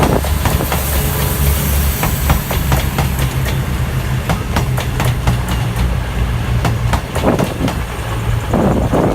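A train running past, its wheels clicking over the rail joints above a steady low rumble.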